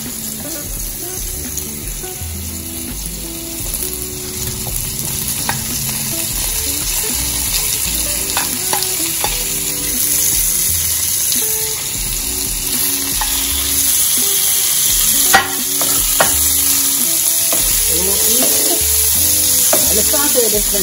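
Carrot, onion and sweet pepper slices sizzling in hot oil in a black skillet, stirred and scraped with a wooden spoon. The sizzle grows louder about halfway through as more vegetables are tipped in from a plate, and there is one sharp knock about three quarters of the way in.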